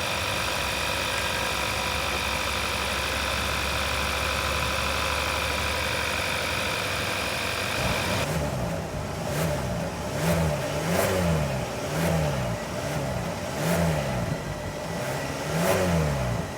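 Kia Sorento's 2.5-liter four-cylinder engine idling steadily. About halfway through it is revved in a string of short blips, about one a second, each rising and falling in pitch.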